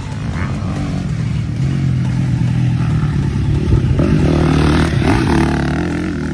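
Motocross dirt bike engines running, with a bike revving higher about four seconds in, then easing off near the end.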